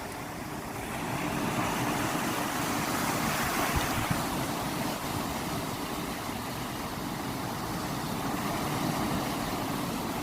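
Ocean waves rushing in a steady wash that swells about a second and a half in.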